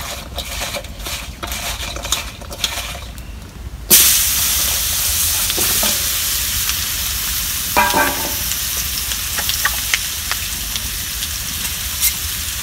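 Spiced potato slices being mixed by hand in a steel bowl with small clicks, then, about four seconds in, tipped into hot oil in a black karahi, where they break into a loud, steady sizzle of frying. A brief metal clatter comes about halfway through.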